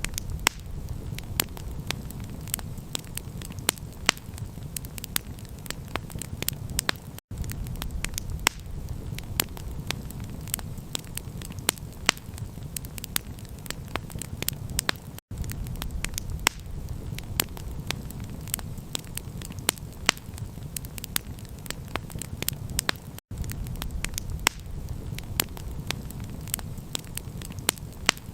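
Campfire crackling: frequent sharp pops and snaps of burning wood over a steady low rumble. The sound cuts out for an instant three times, about every eight seconds.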